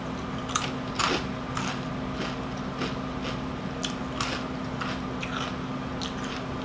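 Close-miked crunching and chewing of rolled Doritos Dinamita tortilla chips: irregular crisp crunches, about two a second.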